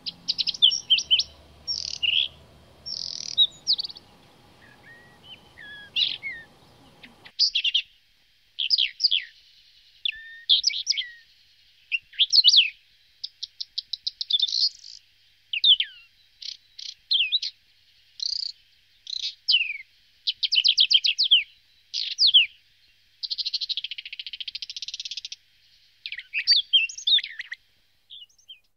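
A songbird singing a long run of short, varied phrases of whistles and rapid trills, with brief pauses between them. A faint low background rumble cuts off suddenly about seven seconds in.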